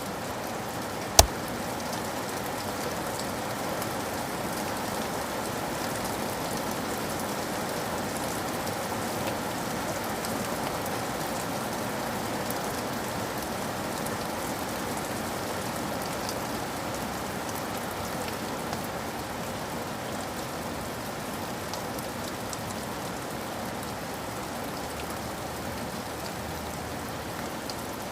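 Steady rain falling, an even patter with no letup. A single sharp click sounds about a second in.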